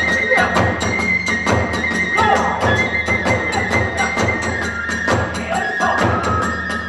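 Kagura hayashi music: a bamboo flute holds a high, wavering note over a fast, steady beat of drums and the clash of small hand cymbals.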